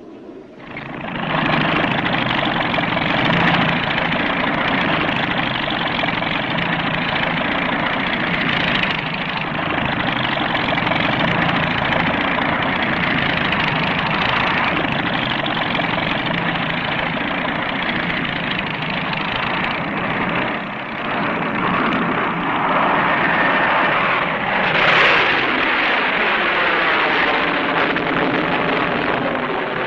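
Aircraft engines running loud and steady. In the last third the pitch sweeps down as an aircraft passes.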